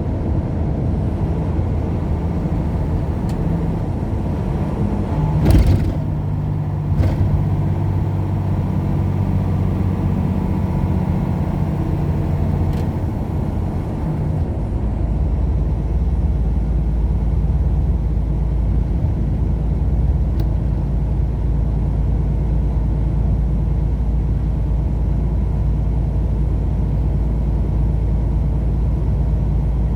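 Heavy truck running down the road, heard from inside the cab: a steady engine drone with road rumble. Two sharp knocks come about five and seven seconds in. About halfway through, the engine tone gives way to a deeper, steady low rumble.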